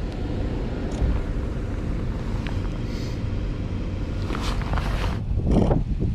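Steady low rumble of street traffic, with a few short louder swells of noise near the end.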